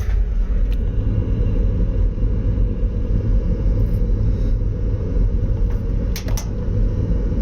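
Thermital Hiperion gasoil boiler's oil burner firing with a steady low rumble, burning with excess air according to the combustion analysis. A few short clicks, two close together about six seconds in.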